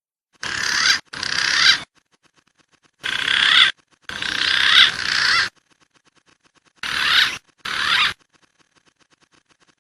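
Recorded wild pigeon lure call played back: three pairs of short, harsh calls with gliding streaks, each cut off abruptly with silence between.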